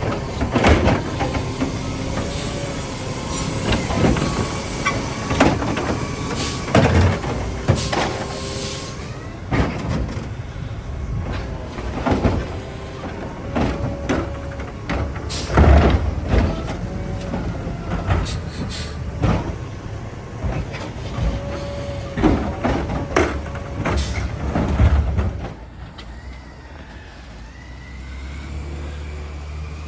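Garbage truck at work: a low engine rumble and wavering hydraulic whine under many loud clanks and bangs as trash and cans are handled. It all goes quieter near the end.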